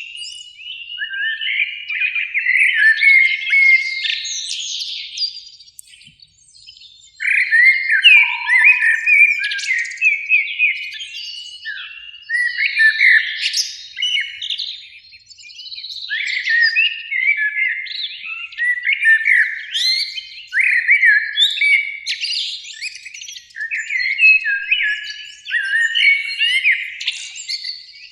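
Common blackbirds singing: a dense, continuous run of fluted, warbling phrases with twittering notes, easing briefly about six seconds in. A single short, lower whistled note sounds about eight seconds in.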